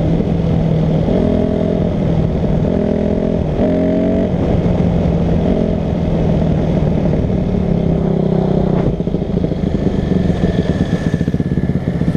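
Dirt bike engine running under way, its revs climbing and dropping in steps several times in the first half, then holding steadier with a rougher note near the end.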